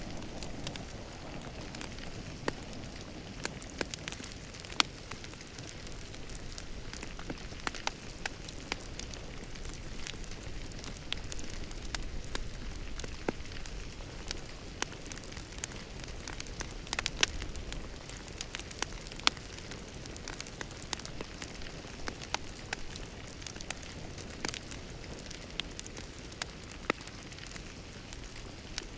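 Wood fire crackling in a fireplace: a steady hiss with irregular sharp pops and snaps, several a second at times.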